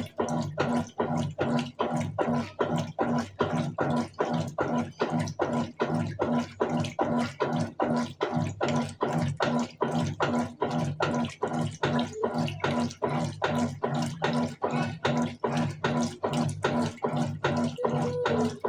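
Colormaq Eco Max 14 kg top-loading washing machine in its wash phase: the motor hums while the agitator churns the load in regular strokes, about two to three a second, with water sloshing each stroke.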